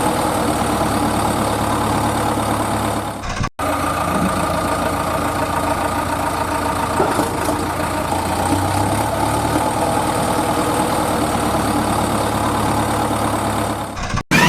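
Heavy vehicle engine idling steadily, cut off for a split second twice.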